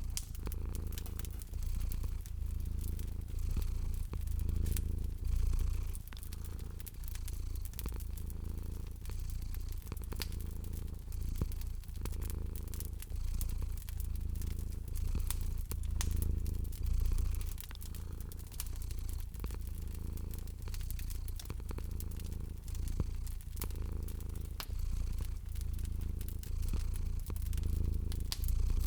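A cat purring steadily, the low purr swelling and fading with each breath, over the scattered small pops and crackles of a fireplace fire.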